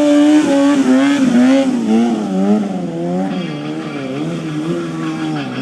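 Stunt motorcycle engine running at high revs, its pitch dropping over the first couple of seconds and then rising and falling about twice a second as the rider works the throttle.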